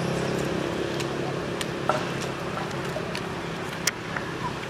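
Steady hum of a vehicle engine, slowly fading, with a few sharp clicks.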